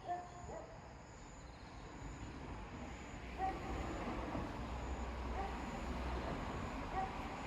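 Night ambience of insects chirping, a faint high note about once a second, with short clear calls every second or two and the low rumble of distant traffic swelling from about two seconds in. No thunder is heard.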